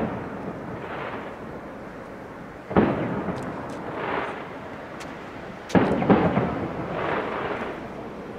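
Aerial firework shells bursting: a sharp bang about three seconds in, then two more close together near six seconds. Each bang trails off in a long rolling rumble.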